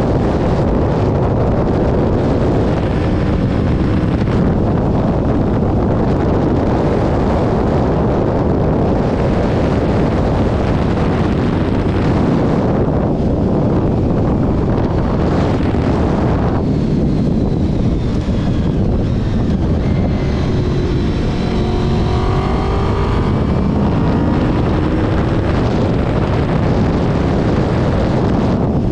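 Honda VFR750's V4 engine running at road speed under heavy wind buffeting on the microphone. The engine's pitch rises and falls for a few seconds about twenty seconds in.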